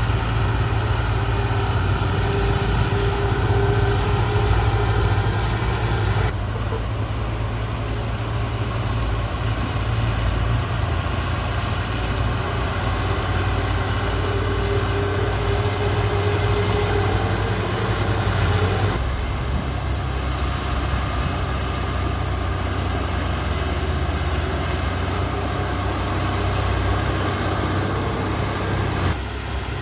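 Diesel engine of heavy earthmoving equipment running steadily, its low drone changing suddenly about six and again about nineteen seconds in.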